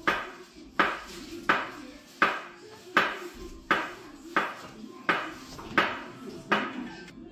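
Steady chopping in a kitchen, a sharp knock about every 0.7 seconds, each with a short ring.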